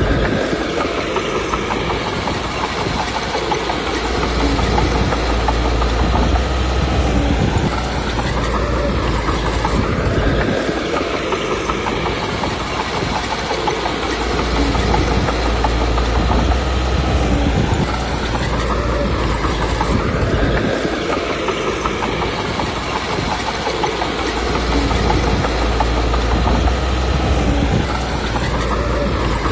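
Komatsu D21P bulldozer's diesel engine running under varying load, with the steel tracks clanking steadily. The engine note swells and eases in repeating cycles roughly every ten seconds as the machine works back and forth.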